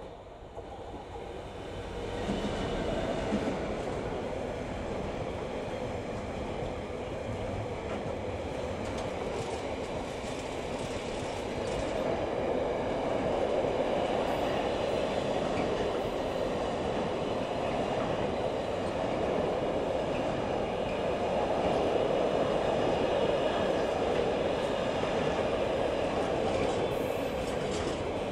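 A Class 66 diesel freight locomotive, with its two-stroke EMD engine, draws close and passes over the first couple of seconds. Behind it a long train of container wagons rolls past with a steady noise of wheels on rail.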